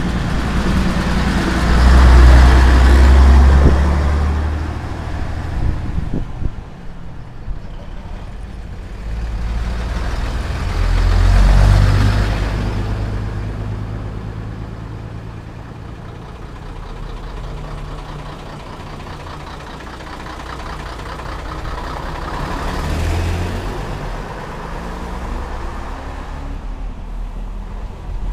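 Old Scania-Vabis trucks driving past, their diesel engines swelling loud and fading away three times, about two, eleven and twenty-three seconds in, over a steady engine drone.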